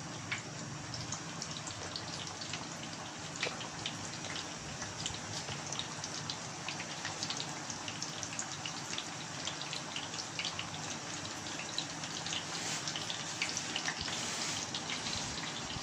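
Batter-coated chicken fritters deep-frying in hot oil: a steady sizzle with many small crackling pops.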